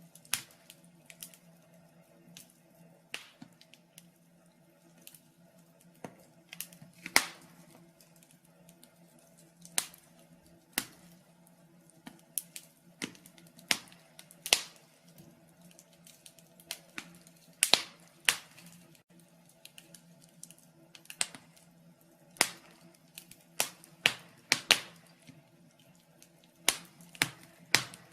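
Wood fire burning in a fireplace, crackling with irregular sharp pops, some much louder than others.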